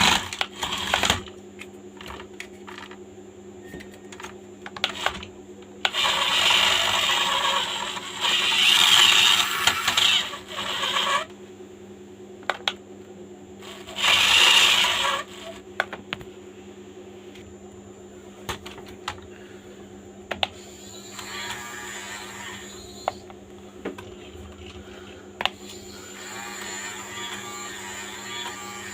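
Toy RC car handled on a hard surface: sharp plastic clicks, with several bursts of its small electric drive motor whirring, each lasting one to a few seconds.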